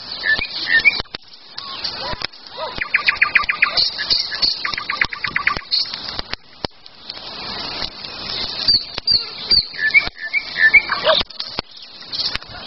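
Several songbirds chirping and singing, with two rapid trills of quick repeated notes about three and five seconds in. Scattered sharp snaps of a crackling campfire run underneath.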